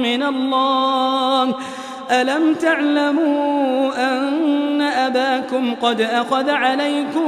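A male voice reciting the Quran in melodic tajwid style, drawing out long ornamented notes, with a brief pause about two seconds in.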